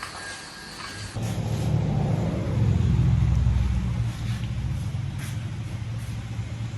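BMW 240i's turbocharged inline-six starting through a 3.5-inch exhaust: it catches about a second in, flares up, then settles to a steady low idle.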